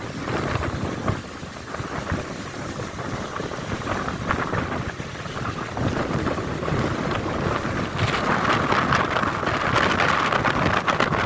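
Strong wind buffeting the microphone in uneven gusts, growing louder about eight seconds in.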